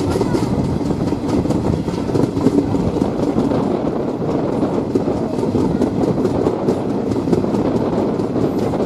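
Passenger train running along the track, its wheels clattering steadily over the rail joints under a constant rumble.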